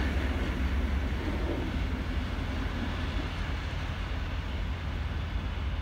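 Steam-hauled heritage passenger train moving away, a steady low rumble of its carriages that slowly fades.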